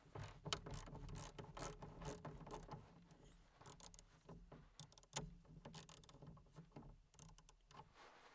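Faint, irregular metallic clicks and taps of hand tools and parts being handled during exhaust repair work, over a low steady hum.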